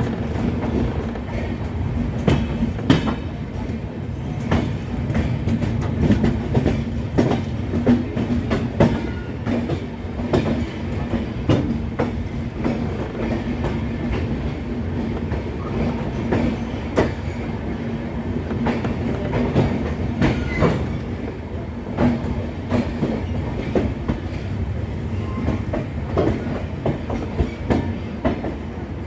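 Indian Railways express train rolling along the track, its wheels clattering irregularly over rail joints above a continuous rumble and a steady low hum.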